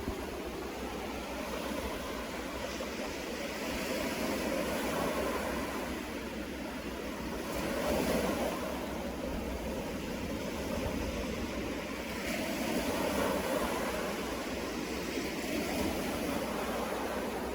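Sea waves breaking on the shore, the surf swelling and fading about every four seconds.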